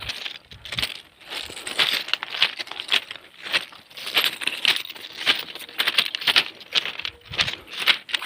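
Footsteps crunching on loose stone railway track ballast at a steady walking pace, about two steps a second.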